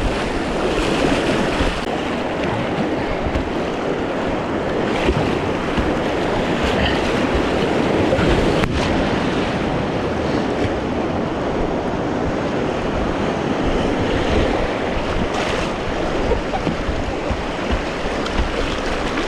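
Creek water rushing steadily around a kayak running a small rapid. A single sharp click about halfway through.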